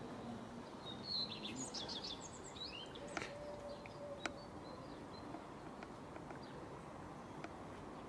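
Small birds chirping, a quick cluster of high chirps about a second in, over a steady outdoor background hiss, with a few faint sharp clicks.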